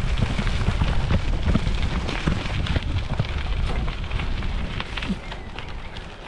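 Strong wind buffeting the microphone: a heavy, gusty rumble with crackling that eases a little near the end.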